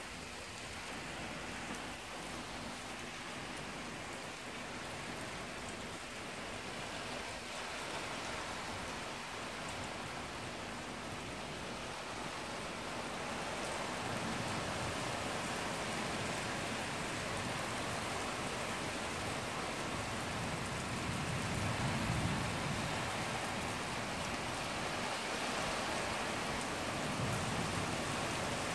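Heavy rain pouring steadily, growing louder about halfway through, with low rumbles twice in the last third.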